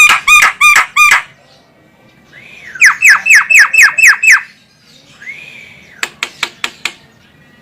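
Javan myna calling: a rapid string of harsh repeated notes, then a rising-and-falling note leading into a fast run of about eight descending notes. Another single arched note follows, then a quick burst of about six sharp clicks near the end.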